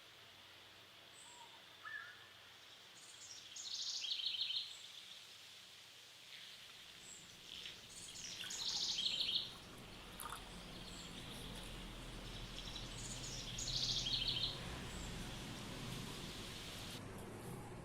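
Bird song: the same short, high trilling phrase repeats about every five seconds over a faint steady hiss.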